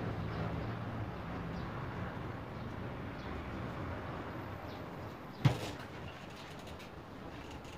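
A single sharp knock about five and a half seconds in, over a steady background hiss.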